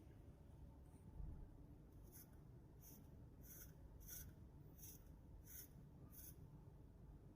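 Seven faint, short scratching strokes, evenly spaced about two-thirds of a second apart.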